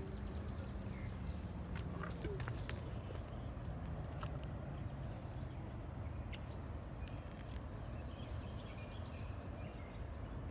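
Outdoor ambience: a steady low rumble with scattered clicks and a few faint high chirps, like distant birds.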